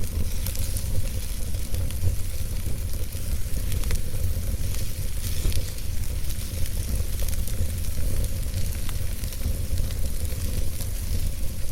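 Wood fire burning in a fireplace: a steady low rumble of the flames with frequent small, irregular crackles and pops from the burning logs.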